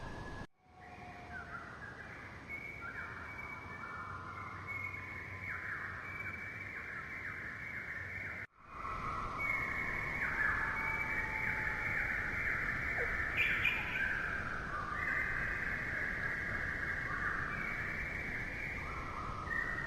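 Rainforest ambience: a dense chorus of many overlapping high, trilling animal calls. It cuts out briefly twice, about half a second in and about eight and a half seconds in, and is a little louder after the second gap.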